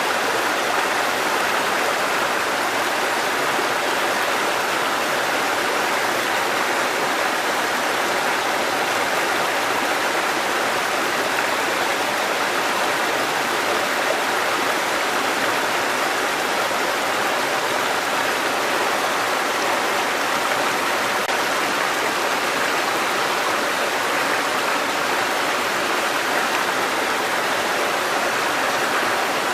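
Mountain stream cascading over rocks: a steady, even rush of water that doesn't change.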